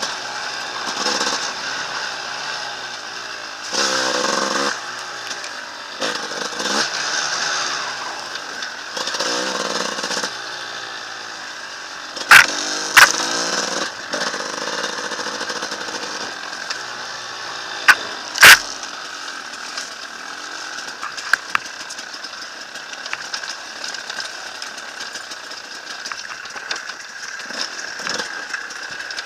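Enduro dirt bike engine revving in short bursts, then running more steadily, as it works through mud. Four sharp, very loud knocks stand out in the middle, two close together and then another pair about five seconds later.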